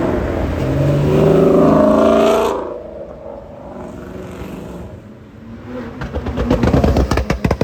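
Loud car exhausts accelerating away. One engine revs up with a rising pitch, then cuts off suddenly a couple of seconds in. Near the end another loud exhaust comes in with rapid, rough pulsing.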